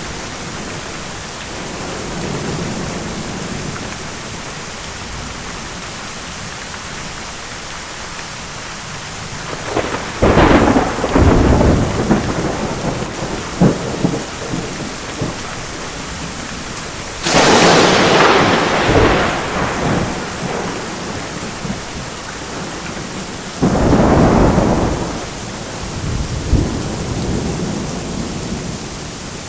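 Steady rain with three loud thunderclaps, about ten, seventeen and twenty-four seconds in, each trailing off into rumbling.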